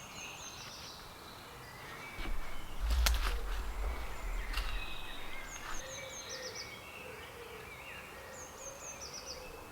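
Woodland birds chirping, with short quick runs of high notes about six seconds in and again near the end. About two seconds in, a low rumble with a couple of sharp clicks rises for roughly three seconds.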